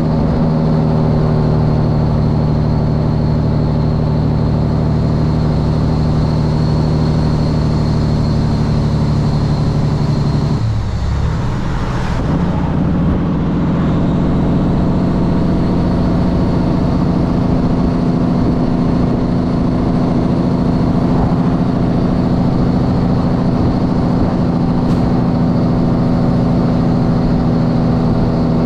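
Kenworth W900 semi truck's diesel engine with its Jake brake (engine compression brake) engaged, a steady drone heard through open cab windows. About eleven seconds in the tone breaks briefly and dips, then settles back into the steady drone.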